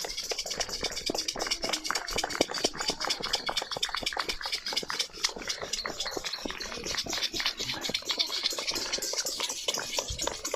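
Neighbours in a street clapping and making noise together: a dense, uneven patter of many hand claps and strikes that keeps going without a break.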